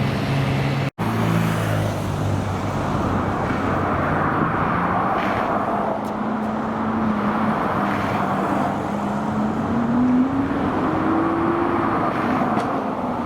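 Supercar engine running amid traffic noise, its note climbing in a rev about ten seconds in and dropping back. The sound drops out for an instant about a second in.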